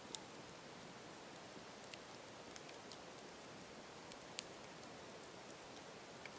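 Campfire crackling: a soft steady hiss with sharp pops and snaps scattered at irregular moments, the loudest about four seconds in.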